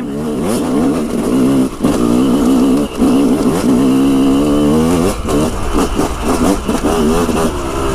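Yamaha dirt bike engine running under throttle while riding, its revs wavering up and down, with a rise in revs about five seconds in.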